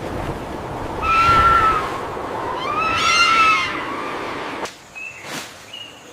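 Two drawn-out animal calls, each rising and falling in an arch, over a steady rushing background, followed near the end by two short, high, whistle-like notes.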